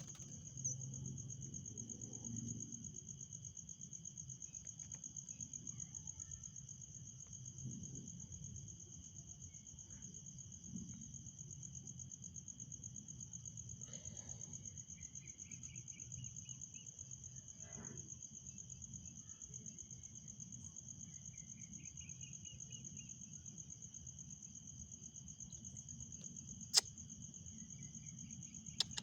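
A continuous high-pitched insect trill, cricket-like, throughout. Over it, an Indian robin sings short phrases of quick notes about three times, and there is a sharp click near the end.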